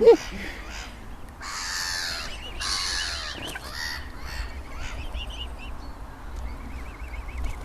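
Birds calling: two harsh, raspy calls about one and a half and two and a half seconds in, then short high chirping calls repeating at intervals.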